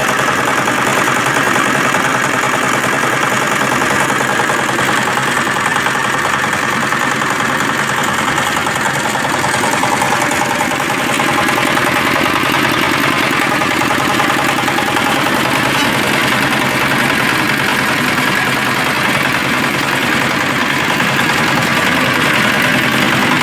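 Sanca R180 single-cylinder diesel engine running steadily with its rapid, even diesel knock.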